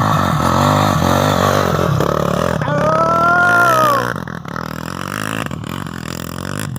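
Off-road trail motorcycle engines revving hard under load on a steep climb, their pitch rising and falling with the throttle; the sound drops back to a lower level after about four seconds.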